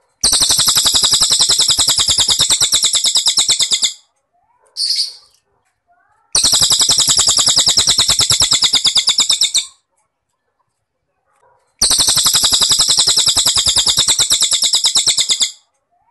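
Cililin bird singing three long, fast-pulsed high trills of about three and a half seconds each, with a short high call after the first.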